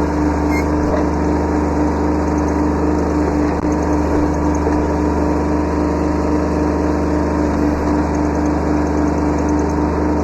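Kubota B7100 subcompact tractor's three-cylinder diesel engine running steadily at a constant speed.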